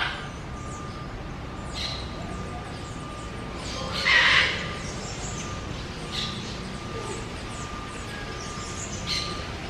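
Wild birds giving short, scattered calls, one louder harsh call about four seconds in, over a faint steady high tone and outdoor background hiss.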